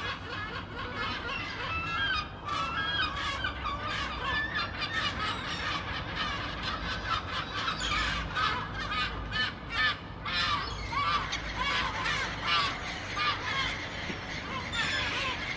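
A flock of gulls calling, many short cries overlapping continuously.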